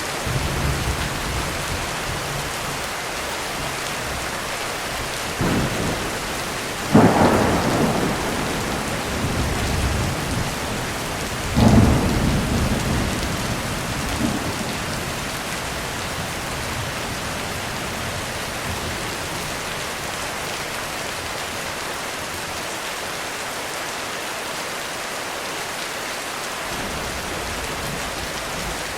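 Heavy rain falling steadily on a roof, with thunder: a short clap about five seconds in, a loud crack about seven seconds in that rumbles on for a few seconds, and another loud crack near twelve seconds that rumbles off over the next few seconds.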